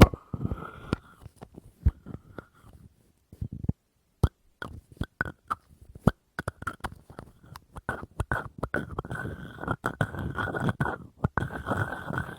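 Tapping on an object that rings with a steady tone: scattered single taps at first, then fast, continuous tapping from about eight seconds in.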